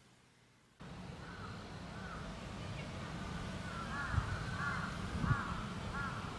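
Crows cawing, a short call every half second or so, over a low outdoor rumble that cuts in suddenly about a second in.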